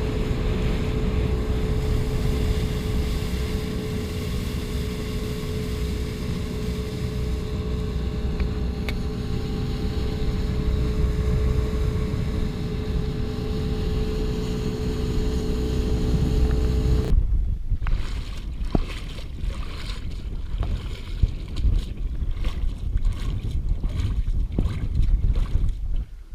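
Boat motor running steadily under way, with heavy wind and water rumble. About two-thirds of the way through it cuts off suddenly, leaving gusty wind on the microphone and scattered small clicks and knocks.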